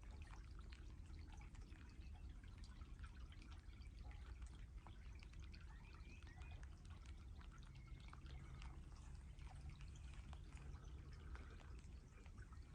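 Very faint outdoor ambience of light rain: soft, scattered ticks of raindrops and drips. A faint low drone comes in for a few seconds in the second half.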